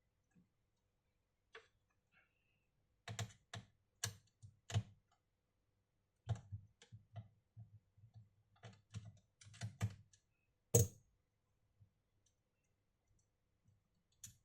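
Irregular sharp plastic clicks and taps from work on a laptop, coming in two busy clusters with one louder click about eleven seconds in.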